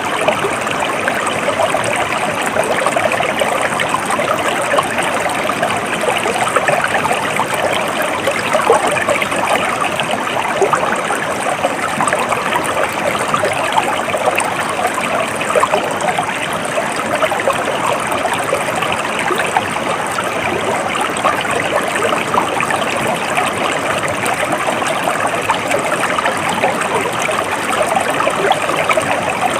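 Water flowing in a stream, a steady even rush of running water with no breaks or changes.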